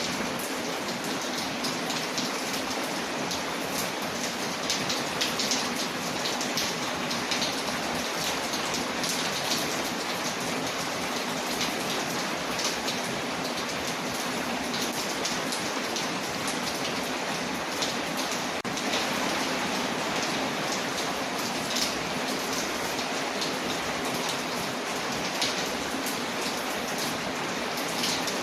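Steady rain falling on a window, mixed with the scattered small pops and crackles of a wood fire burning in a fireplace.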